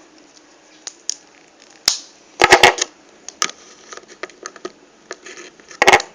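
Plastic action figure being handled, with a string of sharp clicks and knocks as a part is fitted. The loudest clatters come about two and a half seconds in and again near the end.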